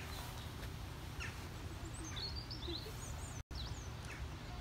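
Small birds chirping and twittering in quick high sweeps over a steady low rumble of outdoor background noise; the sound drops out completely for an instant about three and a half seconds in.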